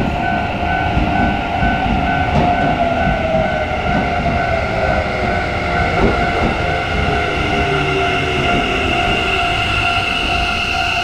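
Electric commuter train moving through the station, wheels rumbling and clicking over the rail joints, with a motor whine that falls slowly in pitch as the train slows. Steady high ringing tones sound through it all.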